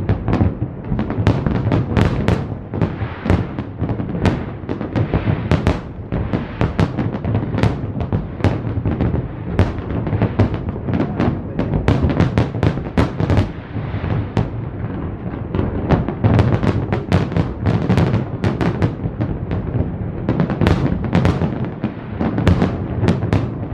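New Year fireworks display: a continuous barrage of bangs and crackles, several a second, over a steady low rumble.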